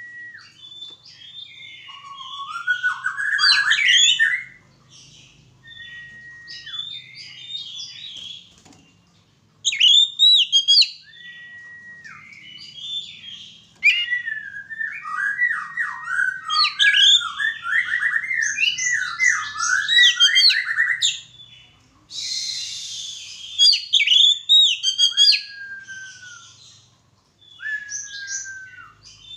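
Oriental magpie-robin (kacer) singing in loud bursts of fast, varied whistled and chattering phrases with short pauses between them. Some single whistles are held level and a few slide downward near the end. About three-quarters of the way through there is a short hissing burst.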